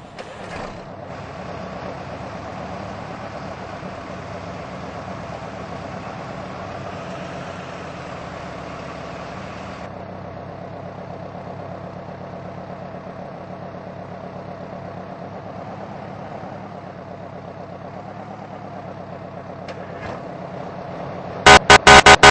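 Fire truck's diesel engine running steadily, then near the end a rapid string of very loud, short air-horn blasts.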